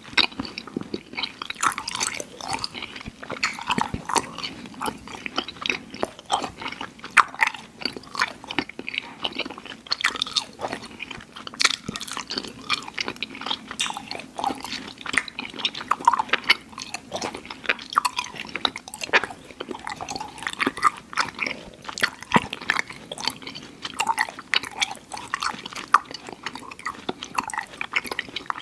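Close-miked mouth sounds of chewing soft, chewy Airheads sour candy: wet smacks, squishes and sticky clicks coming several times a second without a break.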